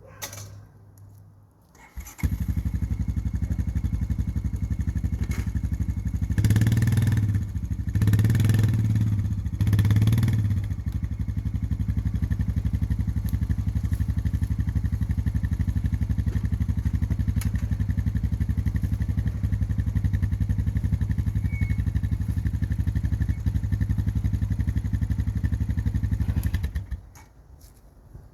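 Small gasoline engine starting up abruptly. It is revved up three times in quick succession, then idles steadily with an even pulsing beat before shutting off near the end.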